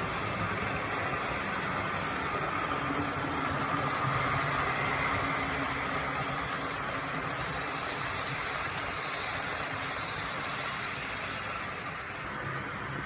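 HO-scale model train running along the track, a steady motor and wheel hum that grows louder about four seconds in and eases slightly near the end.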